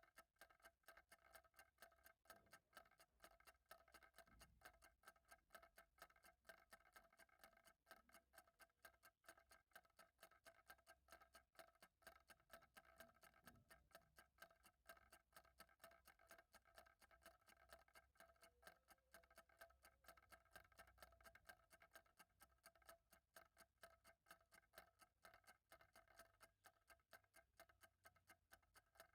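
Faint, steady ticking of a clock, one even tick after another with no change.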